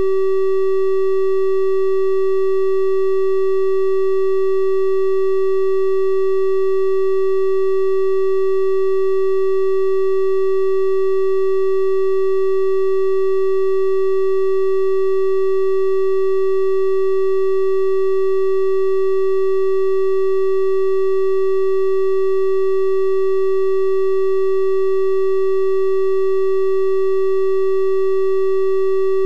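Synthesized 384 Hz triangle-wave tone held steady, a constant pure-sounding hum with faint higher overtones.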